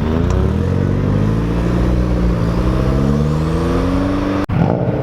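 Car engine accelerating, its pitch rising for about four seconds with a brief dip in the middle, then cut off abruptly for a moment near the end.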